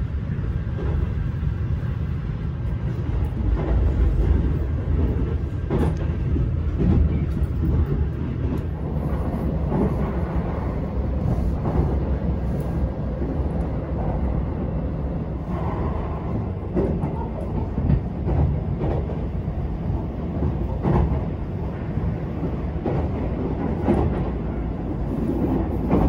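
Keihan 8000 series "Elegant Saloon" train running at speed, heard from inside the passenger car. A steady low rumble of wheels on rails is broken by irregular short clacks.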